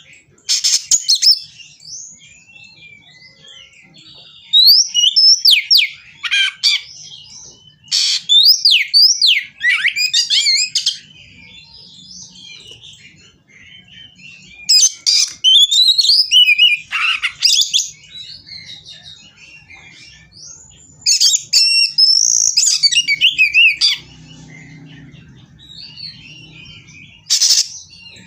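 Oriental magpie-robin (kacer) singing in loud, repeated bursts of rapid, varied whistles and harsh notes, a few seconds each with short pauses between. The bird is worked up, singing in a fighting mood as if seeking a rival.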